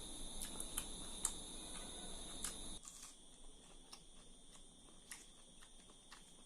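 Faint, scattered clicks and smacks of eating rice and curry by hand, over a steady high-pitched background whine; about three seconds in the background noise drops off suddenly.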